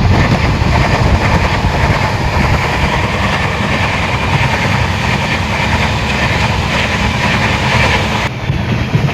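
Train running along the railway track: a steady, loud rumble of wheels on rails, changing abruptly near the end.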